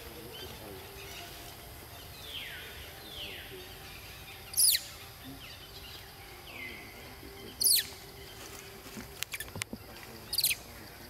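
Birds calling in outdoor ambience: three short, loud, high calls that drop sharply in pitch, about three seconds apart, with fainter falling whistles between them and a few light clicks near the end.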